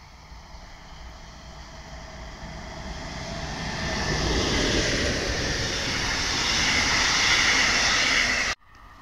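Passenger train hauled by an electric locomotive approaching and passing close by. The rumble and wheel-on-rail noise build over the first four seconds and stay loud while the coaches go past, then cut off suddenly near the end.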